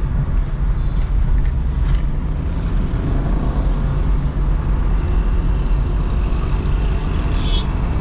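Road and traffic noise from a car driving through city traffic: a steady low rumble of engines and tyres, with a brief higher-pitched sound near the end.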